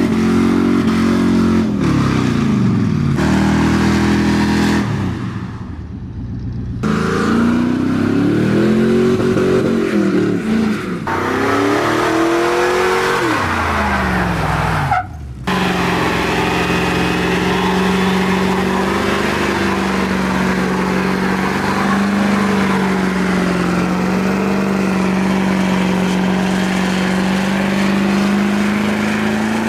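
Vehicle engine revving up and down several times, then, after a brief break about fifteen seconds in, held at steady high revs for the rest of the time.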